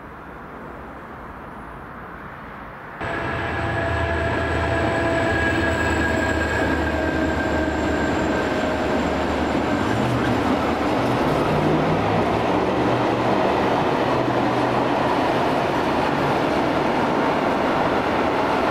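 Train running past close by: a loud, steady rush of wheels on rail with a low hum, starting abruptly about three seconds in. Several whining tones from the drive fade out over the following seconds.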